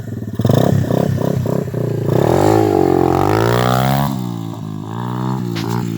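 Small dirt bike engine chugging at low speed, then revving up and falling back about halfway through, and running on at a lower, steadier speed.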